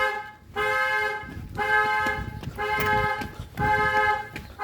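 A 2007 Chevrolet Silverado's two-note horn honking in even pulses, about one a second, each about half a second long. This is the pattern of the truck's anti-theft alarm going off after the battery was reconnected.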